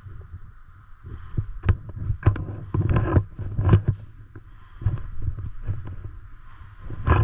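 Irregular sharp knocks and thumps over a low rumble, with a cluster in the first half and a loud one near the end.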